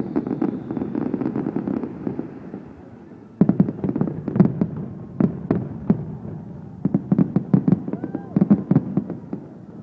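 Fireworks display: rapid crackling at first, then, after a short lull about three seconds in, a run of sharp bangs in quick clusters that die away near the end.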